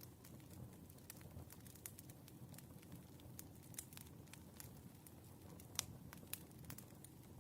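Firewood burning, faintly crackling: irregular small pops and snaps over a low steady rumble, with one sharper pop a little under six seconds in.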